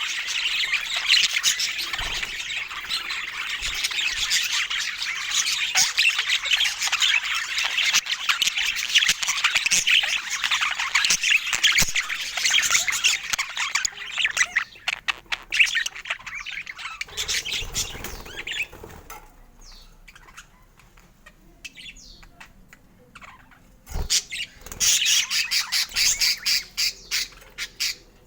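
Budgerigars chattering and chirping: dense, continuous warbling for about the first half, thinning to scattered chirps and a brief lull, then a quick run of chirps near the end.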